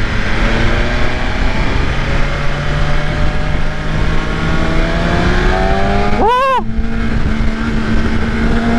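BMW S1000RR inline-four engine pulling hard, its note climbing steadily as the bike accelerates, over rushing road noise. About six seconds in, a short burst cuts through with its pitch arching up and falling back.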